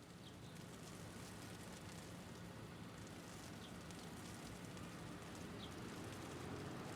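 Hail pattering as many small ticks over a low, steady city-traffic rumble, gradually fading in.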